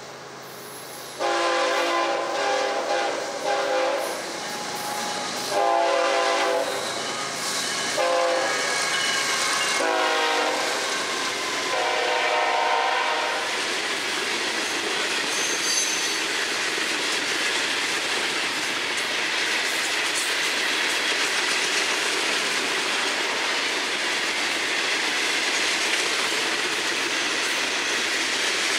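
FEC freight locomotive's multi-note air horn sounding a series of blasts, mostly long with one short, the pitch dropping as the locomotive passes. After that, a long freight train's cars roll by with a steady noise of wheels on rails and clickety-clack.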